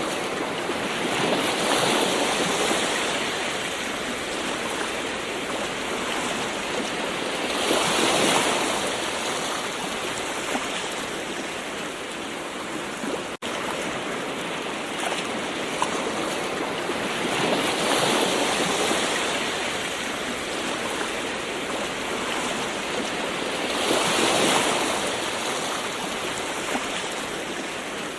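Gentle ocean waves: a steady wash of surf that swells four times as waves break, near the start, about a third of the way in, past halfway and near the end. The sound drops out for an instant about halfway through.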